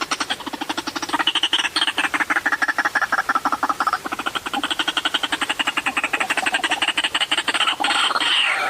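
White-breasted waterhen calling: a fast, even run of harsh croaking notes, about ten a second, with the pitch dipping about two seconds in and rising again. A louder, wavering call starts near the end.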